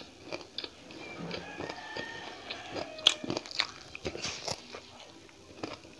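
Close-up mouth sounds of a person eating by hand: chewing with sharp crunches, the loudest about three seconds in and several more over the next second and a half.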